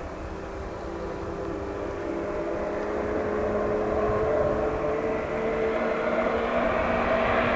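Rally car engine approaching on a snowy stage, its note held fairly steady while it grows steadily louder as the car nears.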